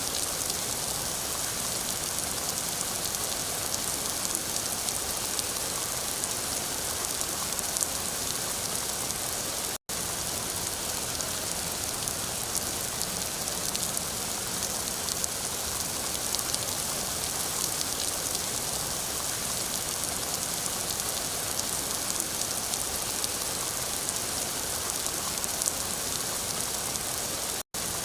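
Steady rain: a dense hiss with the patter of individual drops. The sound cuts out for an instant twice, about ten seconds in and near the end.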